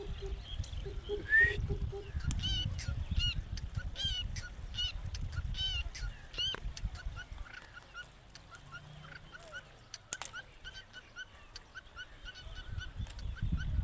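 A bird, taken here for the pet green parrot, calling in a long series of short, sharp notes about two to three a second, louder in the first few seconds and fainter after that. Low rumbling noise, like wind or handling on the microphone, runs under the first half.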